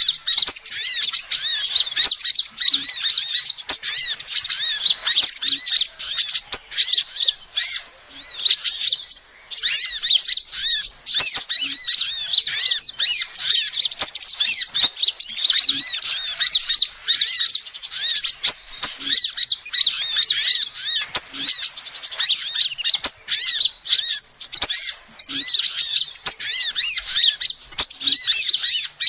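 Female sunbird calling: rapid high twittering chirps, repeated almost without pause, with a short break about nine seconds in.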